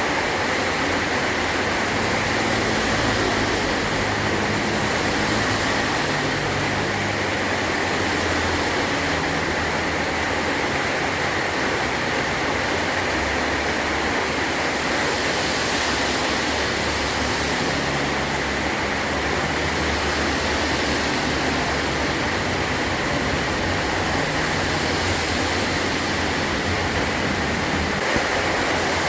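Heavy rain drumming steadily on a metal roof, an even dense hiss with no let-up.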